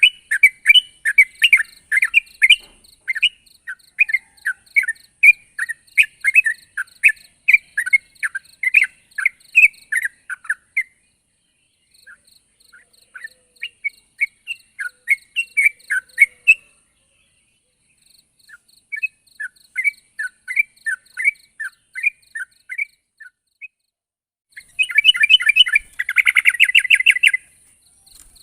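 Yellow-vented bulbul (trucuk) singing: phrases of short chirping notes, two to three a second, broken by brief pauses, with a denser rapid chattering burst near the end.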